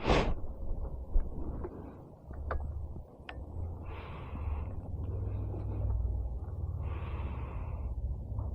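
Cold start of a Harley-Davidson Milwaukee-Eight 114 V-twin with an S&S 475 cam and a Bassani 2-into-1 exhaust: the engine catches and settles into a steady, low idle rumble.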